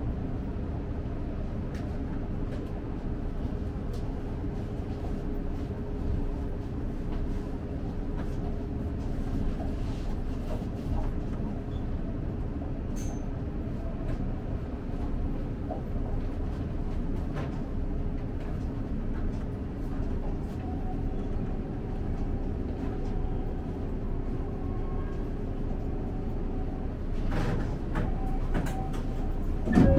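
Electric commuter train of the Seibu Shinjuku Line, heard from inside the front cab, running slowly into a terminal platform: a steady low rumble and hum with scattered light clicks from the wheels. A faint higher tone joins about two-thirds of the way through as the train nears the buffer stop.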